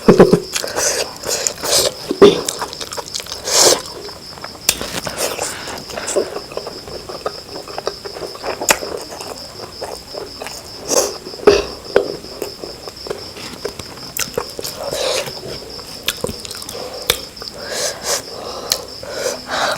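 Close-up eating sounds: irregular wet chewing, lip smacks and clicks of a mouthful of food being eaten, with a faint steady high whine behind.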